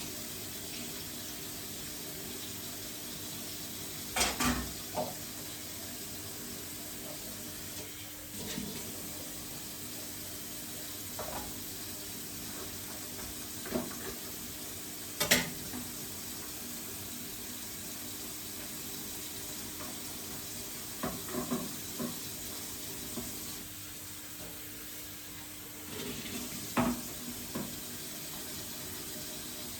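Water running steadily, with a faint steady hum and scattered sharp knocks and clinks of hard parts being handled, heaviest in a few clusters.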